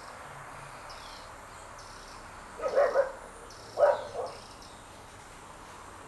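A dog barking twice, each time a quick double bark, over a high buzzy chirp that repeats about once a second.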